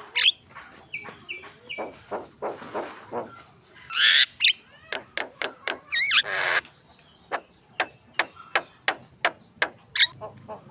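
Javan myna (jalak kebo) in full song: a varied string of short whistled notes, harsh screeching bursts about four and six seconds in, then a run of sharp clicking notes at about four a second.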